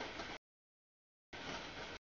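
Freight train of tank cars rolling through a grade crossing, heard as two abrupt half-second bursts of noise with dead silence between them.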